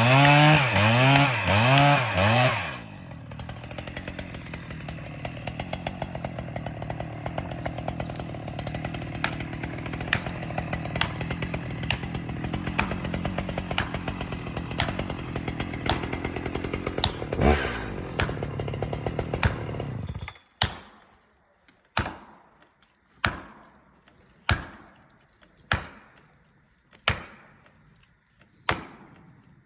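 Chainsaw revving hard for the first couple of seconds, then dropping to a quieter, steady running with a fast ticking, with a single thud about two-thirds of the way through. Near the end come eight sharp hammer blows, a little over a second apart, as when driving a tree over during felling.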